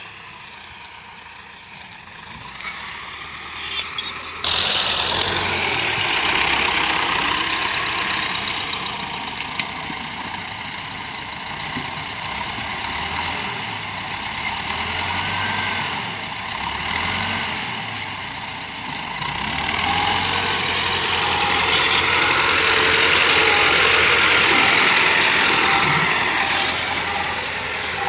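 T-40 wheeled tractor's air-cooled diesel engine running under load. It gets suddenly louder and busier about four and a half seconds in, and swells again in the last third.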